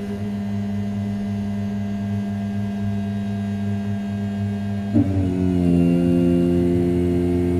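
Desktop CNC mill's 500 W brushless spindle at 6000 rpm, roughing A7075 aluminium with a steady humming cut. About five seconds in there is a brief knock, and the tone shifts slightly and gets a little louder.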